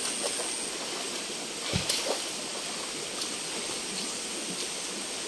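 Steady rush of flowing river water, with a short thump a little under two seconds in.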